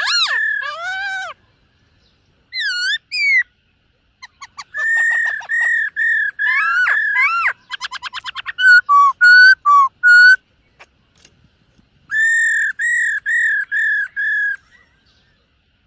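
Black-throated laughingthrush singing in loud, clear whistled phrases separated by short pauses: runs of repeated ringing notes, swooping notes, and a fast rattling trill about eight seconds in.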